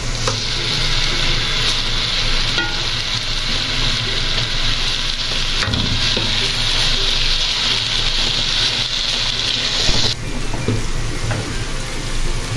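Grated carrot halwa with crumbled khoya sizzling in ghee in an aluminium pot while a spoon stirs it, a steady frying hiss. The sizzle is the sign that the ghee has separated out and the halwa is nearly done. The sizzle cuts off suddenly about ten seconds in.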